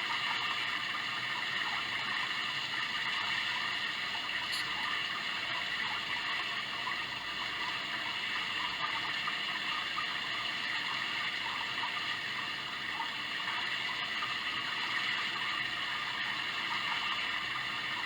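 Sound Oasis sound machine playing a steady ambient noise track: an even, unbroken hiss strongest in the upper-middle range, without pauses or rhythm.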